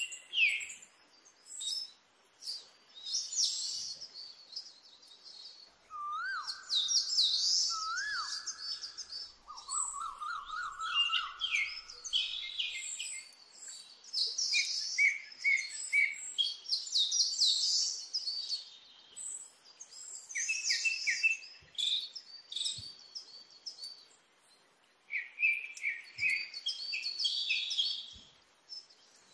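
Songbirds chirping and singing in repeated bursts of quick, high notes, with two lower rising whistles and a short trill between about six and twelve seconds in.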